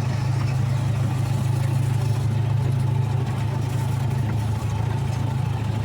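Zoo ride-on train's engine running steadily as the train rolls along, heard from on board as a constant low hum.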